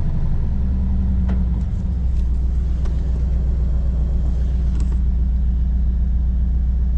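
Car engine running with a steady low hum, its note shifting slightly about a second and a half in, with a few faint clicks over it.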